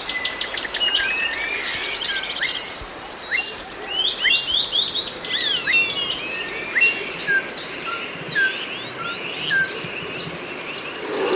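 Rainforest birds calling at once: many rapid rising and falling chirps, with a run of short falling whistles in the second half. A steady high insect buzz runs underneath.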